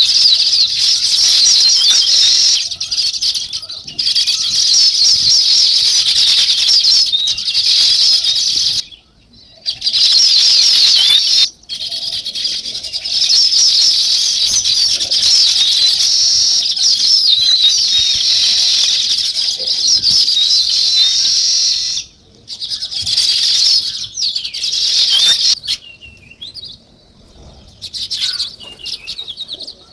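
A flock of small songbirds chirping and chattering densely, many calls overlapping in a high-pitched chorus. The chorus cuts off abruptly a few times.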